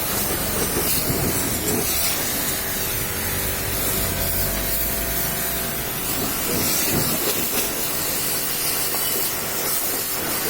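A high-pressure water jet spraying steadily, a loud continuous hiss of water washing a vehicle.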